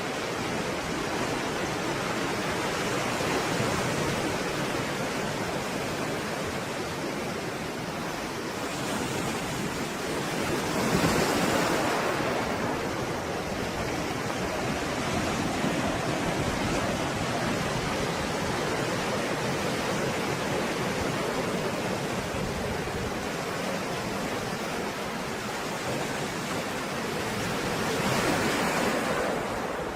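Stormy sea surf: a continuous rushing wash of waves, with a wave surging louder about eleven seconds in and another near the end.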